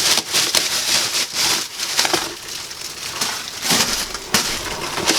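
Bubble wrap and plastic packaging rustling and crinkling as it is slid off and handled around a cardboard box, with many short sharp crackles.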